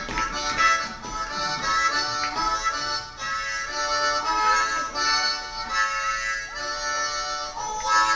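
Harmonica playing an instrumental break in a song, held chords changing every half second or so.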